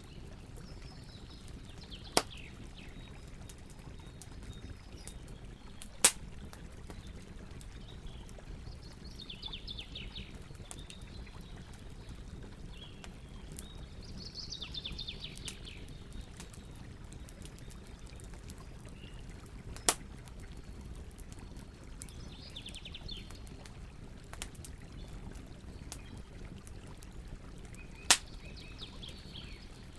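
Campfire crackling, with four sharp pops from the burning wood over a steady low rush of river water. Birds sing in short bursts of quick high chirps five times.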